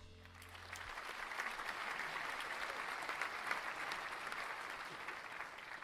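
Audience applauding at the end of a song, building up over the first second and continuing steadily before easing off near the end. The last held notes of the accompaniment die away about a second in.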